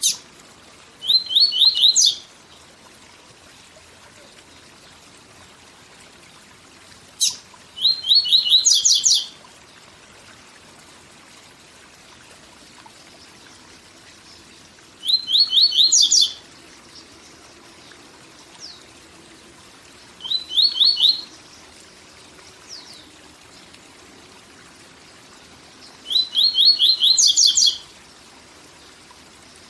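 Papa-capim (double-collared seedeater) singing its 'tui tui zel zel' song: five short phrases a few seconds apart, each a fast run of repeated high notes. A waterfall's steady rush runs underneath.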